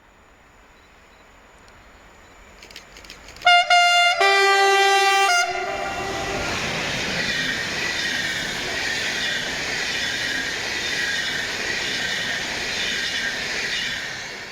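Train approaching and sounding its horn twice, a short blast and then a longer, lower one about a second long. It then passes with a steady rush of wheel and rail noise and some high ringing, fading away at the end.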